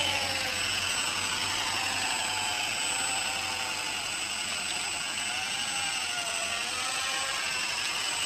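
Electric RC model helicopter running: a steady whine from the motor and rotor with a constant high tone and a lower tone that wavers slightly up and down as the rotor speed shifts.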